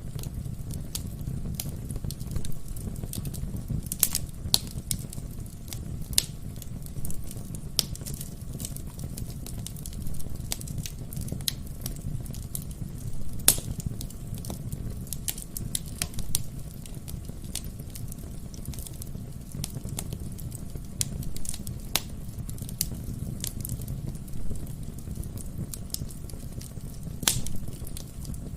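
Wood fire burning in a fireplace: a steady low rumble of flames with irregular sharp crackles and pops from the burning logs, a few louder pops scattered through.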